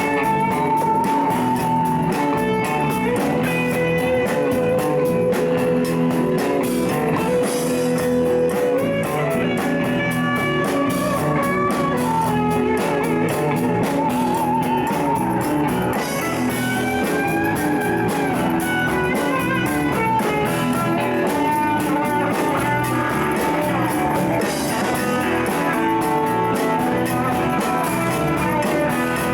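Live band playing an instrumental blues-rock jam: a lead guitar holds long, bent notes with vibrato over a steady drum beat and accompaniment.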